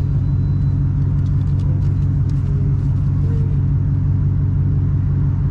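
Small engine of a mini bike trike idling steadily with an even low rumble.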